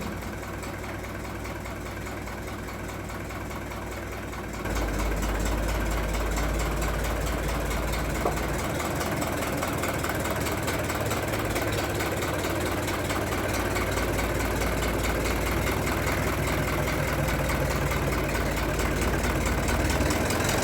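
Fiat 415 tractor engine running steadily, getting louder and heavier in the low end about four and a half seconds in.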